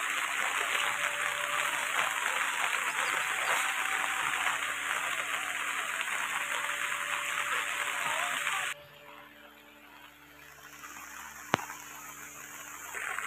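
Steady rain falling, an even hiss. About two-thirds of the way through it drops suddenly to much quieter rain, with a single sharp click a little later.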